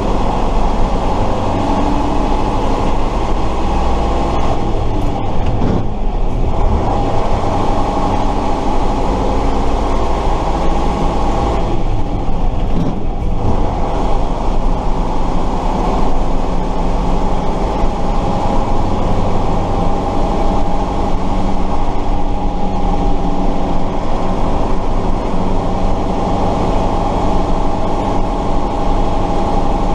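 The air-cooled V8 diesel engine of a 1968 Tatra 138 truck running steadily while driving, heard on board. The engine sound briefly dips about six seconds in and again about twelve seconds in.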